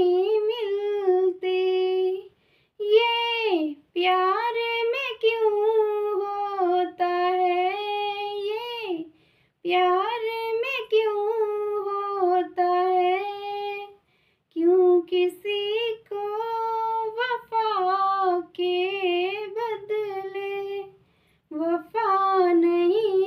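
A girl singing a Hindi film-song melody without accompaniment. She sings long, ornamented phrases separated by short breaths, with no clear words.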